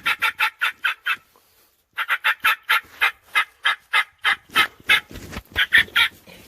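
Wild turkey calling in a fast, even series of short sharp notes, about five or six a second, broken by a short silence about a second in.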